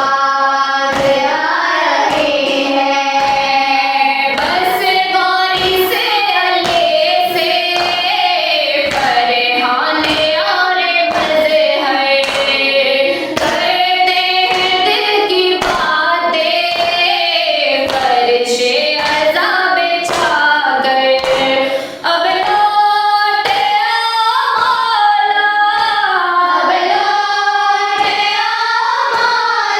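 Noha, a lament chanted by voice without instruments, over a steady rhythm of sharp beats of the kind made by matam, hands striking the chest in time with the recitation.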